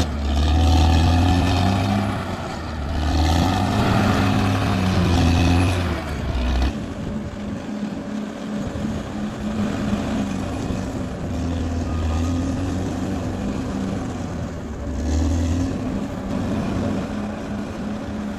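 Bulldozer engine running and working, revving up and easing off. It is loud for the first six seconds, drops off sharply about seven seconds in, then swells again twice.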